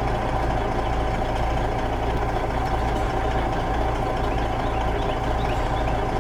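Heavy diesel excavator engine running steadily, with a constant high whine over its deep low hum.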